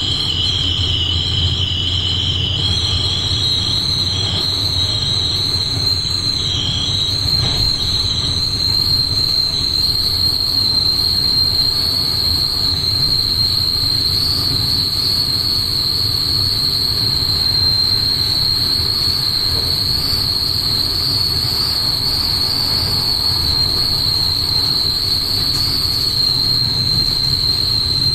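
X11 electric multiple unit running on the line, heard from the driver's cab: a steady low rumble from the running gear under a high, steady whine that climbs in pitch in the first couple of seconds and then holds.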